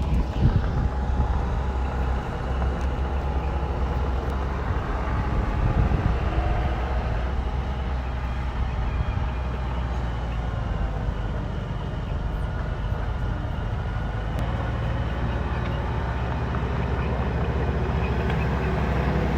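Bulldozer engine running steadily under work, with a heavy low engine note that swells a little now and then.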